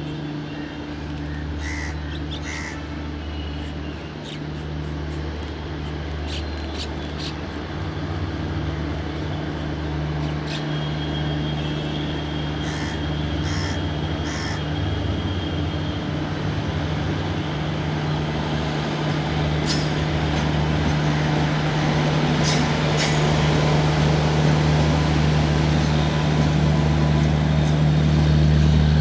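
A locomotive's steady low hum growing slowly louder as the train approaches. Crows caw now and then.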